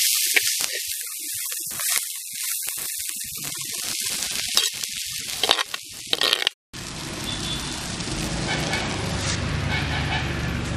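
Cowpeas frying in a clay pot, sizzling, with a metal spatula scraping through them as they are stirred. About six and a half seconds in the sound cuts off and gives way to a steady low background noise.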